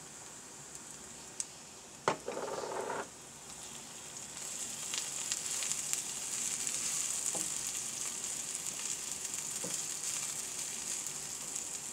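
Sliced onion and garlic sizzling in hot sunflower oil in a frying pan, stirred with a wooden spatula, the sizzle swelling about four seconds in. A sharp knock with a short scrape about two seconds in, and a few light taps of the spatula.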